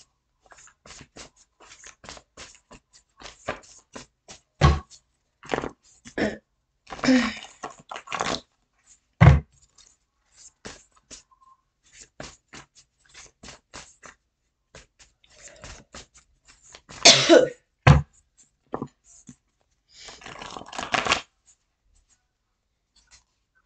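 Tarot cards being handled: a run of irregular short taps and snaps, with a few longer rustling bursts of shuffling, about a third of the way in and twice in the last third.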